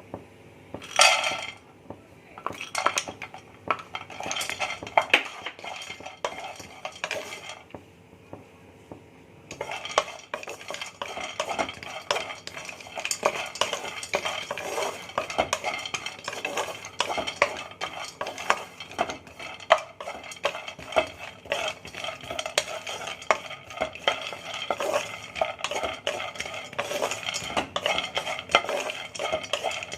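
Cashews being dry-roasted in a kadai, stirred around the pan: scattered clicks and a short clatter about a second in, then steady scraping and rattling from about ten seconds in.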